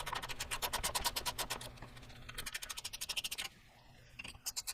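A 15 mm ratcheting wrench clicking rapidly as it turns the upper ball joint's nuts. There is a run of about two seconds, then a shorter run about two and a half seconds in.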